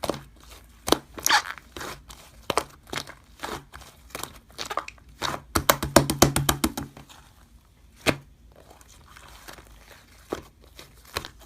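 Slime being squeezed and pulled by hand, giving off irregular clusters of crisp crackles and pops with quieter moments between.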